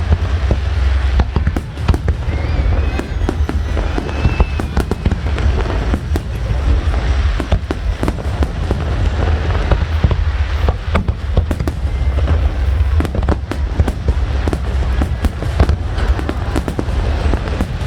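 Fireworks display in full swing: a dense, irregular run of bangs and crackling bursts, many overlapping, over a constant deep rumble.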